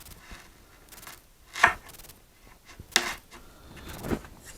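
Stanley knife trimming edge banding off a drawer-door edge: three short, sharp cutting strokes, roughly a second apart.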